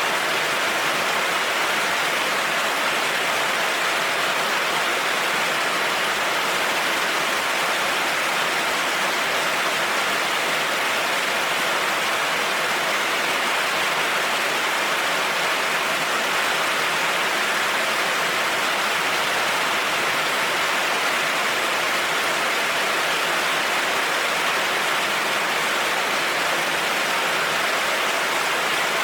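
Heavy rain falling steadily on a road, an even hiss that does not change, with no thunder.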